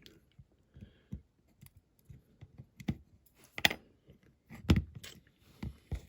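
Irregular small clicks, taps and knocks of a diecast 1/64 scale model and its small parts being handled and fastened together on a work bench, with two sharper knocks about halfway through.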